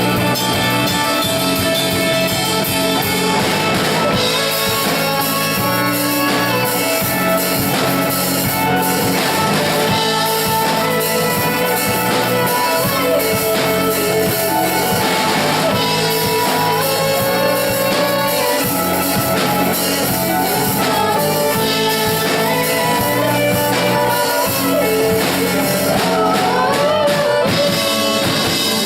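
Rock band playing a song, with guitar and drum kit at a steady loud level and a voice singing.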